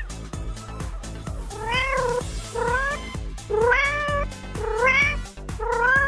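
A cat meowing five times in quick succession from about a second and a half in, each meow rising in pitch. Background music with a steady beat plays under it.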